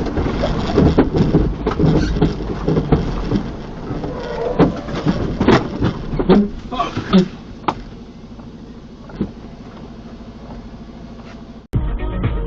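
Vehicle running on the road, heard from inside the cab, with many scattered knocks and clicks over the first several seconds. It then settles to a quieter steady hum before cutting off abruptly near the end.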